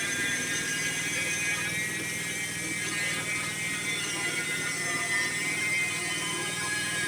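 Sawmill running and cutting through a log, a steady mechanical drone with a high whine that wavers slightly in pitch.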